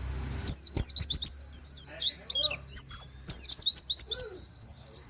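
Pleci (white-eye) singing a fast, continuous run of quick high whistled notes sweeping up and down, the rapid 'nembak' song with 'wit wit' calls and canary-like phrases.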